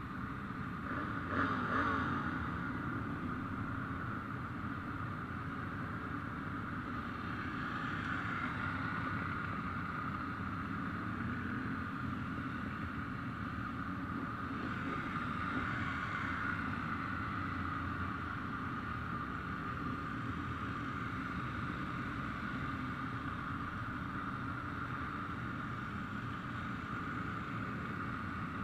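Motorcycle engines running at a distance as a steady mechanical rumble, with a slightly louder pass about one to two seconds in.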